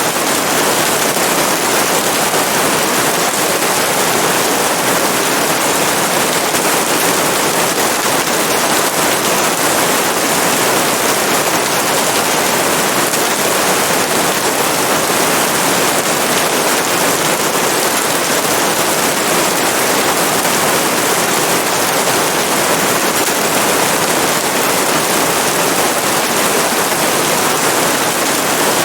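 Steady, loud rain: an even hiss of falling rain with no thunder or breaks.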